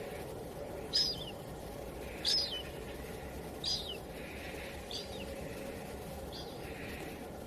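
A small bird chirping: five short, high chirps, one about every second and a half, each dropping at its tail and growing fainter toward the end, over a steady background hiss.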